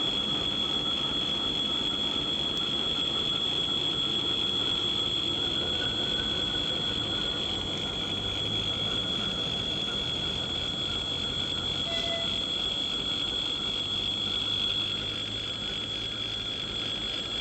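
ChME3 diesel-electric shunting locomotive running, its low engine hum stronger for several seconds in the middle, under a steady high-pitched whine.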